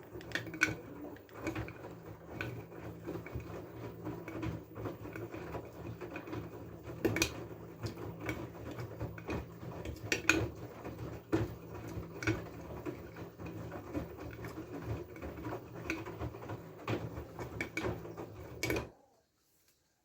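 LG F12A8ND front-loading washing machine tumbling its drum during the wash: a low motor hum with the laundry and water knocking and sloshing. The drum turns for about 19 seconds, then stops abruptly in a pause of the tumbling cycle.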